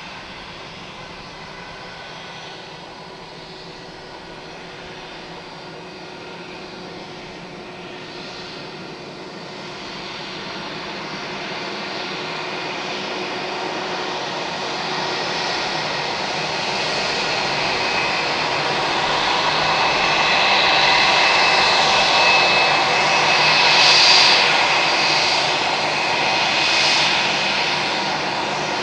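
Airbus A320-232's IAE V2500 jet engines on the airliner's arrival, a steady roar with a faint whine that grows much louder over the middle of the stretch, peaks about four-fifths of the way through, then eases a little.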